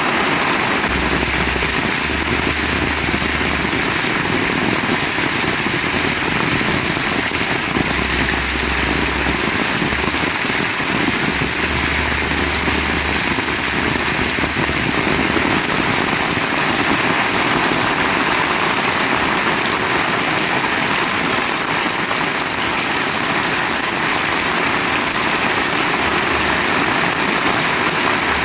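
Heavy rain pouring steadily in an even hiss, with a low rumble that comes and goes several times in the first half.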